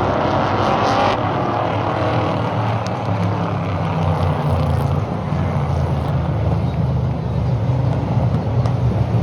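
Stock race cars running laps on an oval track, their engines droning steadily, with a louder spell as cars go by close in the first second.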